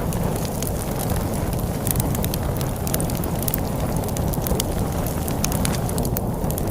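Wood fire crackling with frequent sharp pops and snaps over a steady low rumble of storm wind.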